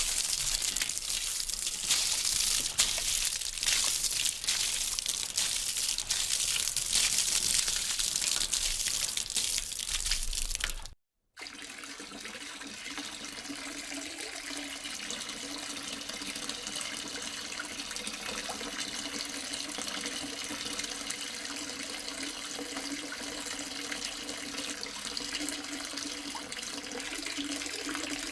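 Running water in two separate recordings. For about eleven seconds it is a loud, dense rush with a fine splashing crackle. It cuts off abruptly into a moment of silence, then gives way to a quieter, steadier stream of running water with a faint low ringing tone beneath it.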